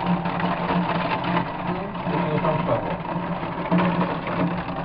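Heavy rain pouring down in a thunderstorm, with a steady low hum and a siren wailing faintly over it. The siren is the kind that goes up for a fire alarm.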